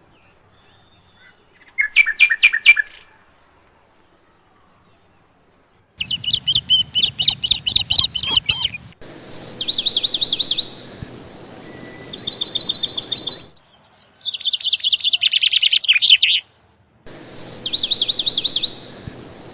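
Small birds chirping in rapid trills of quickly repeated high notes, in separate bursts that start and stop abruptly, with a silent gap of a few seconds near the start.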